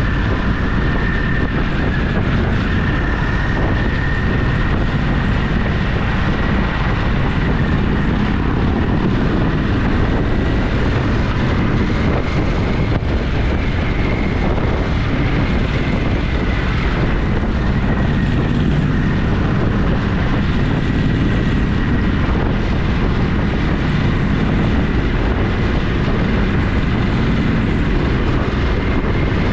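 Motorcycle engine running at a steady cruising speed, a constant drone mixed with wind rush on the camera microphone, with a faint thin whine held steady above it.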